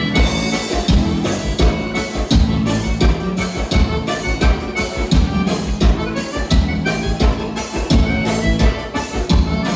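Live gaúcho dance-band music in an instrumental passage: accordion and band over a steady drum-kit beat, with no singing.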